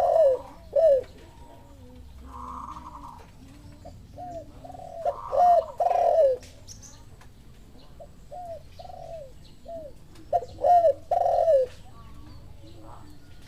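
Spotted doves cooing: groups of short, low, hooked coo notes repeated every few seconds, one bird's calling answered by another.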